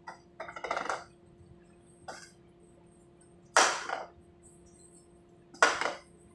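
Short sharp bursts of compressed air hissing, as from a pneumatic cylinder or air line being vented. A few small puffs come in the first second, then two loud blasts about two seconds apart, each cut off within half a second, over a steady low hum.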